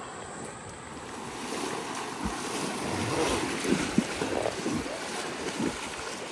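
Steady rush of water, growing louder about a second in, with a few short, sharp knocks in its middle.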